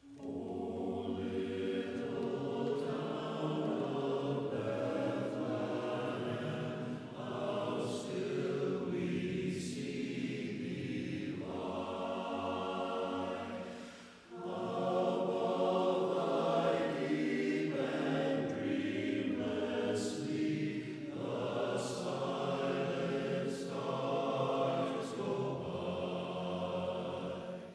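Barbershop chorus singing a cappella in close harmony, in long sustained phrases with a short break about halfway through.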